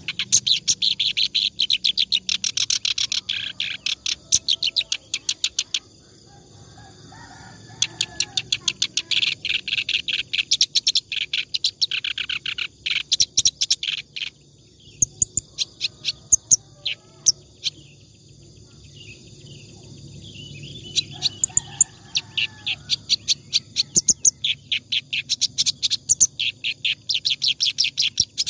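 Reed warbler (kerak basi) singing non-stop: long runs of rapid, high chattering notes, broken by a few short pauses. This continuous song is the kind kept as a tutor song for training other songbirds.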